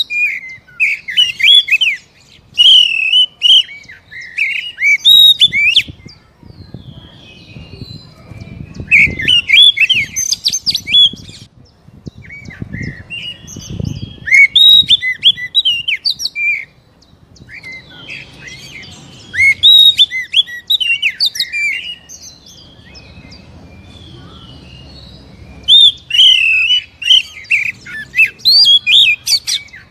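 Oriental magpie-robin (kacer) singing: bursts of rapid, varied whistled and chirping phrases, each a few seconds long, with short pauses between them.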